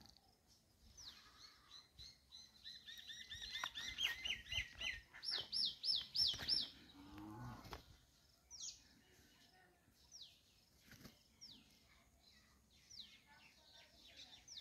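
Small birds calling outdoors. A high, down-slurred whistle repeats about once a second, and a burst of fast, loud chirping notes comes in the middle. A short low-pitched call follows just after halfway.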